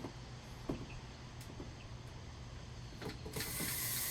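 A few light clicks and knocks as a screw and driver are set against the drawer-slide bracket, then about three seconds in a cordless drill/driver starts running steadily, driving the screw into the slide.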